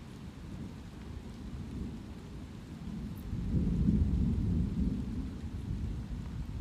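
A low roll of thunder swells about halfway through, peaks, then slowly dies away, over the steady hiss of light rain.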